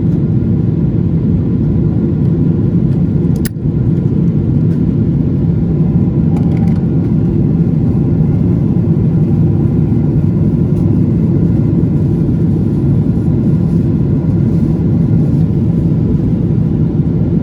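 Aircraft engines running in a steady low drone, with a brief click and drop in level about three and a half seconds in.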